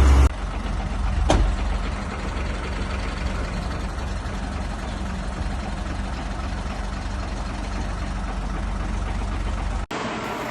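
Concrete mixer truck's diesel engine running steadily while the load is unloaded, with a brief sharp click about a second and a half in.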